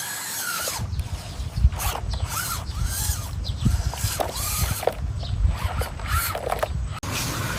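Small electric motors and gearboxes of radio-controlled construction models running in short bursts, each whine rising and falling in pitch, over a low rumble.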